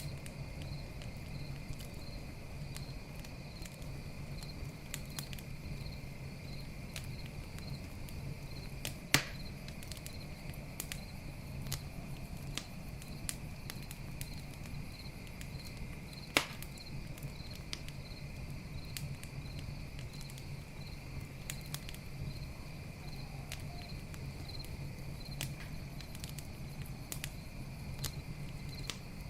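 Campfire crackling with frequent small pops, and two loud pops about a third of the way in and again just past halfway, over the steady high chirring of crickets.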